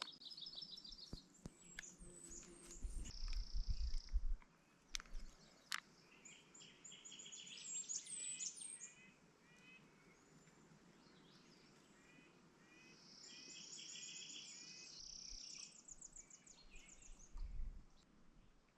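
Songbirds singing: several short phrases of high trills and chirps, with quiet stretches between.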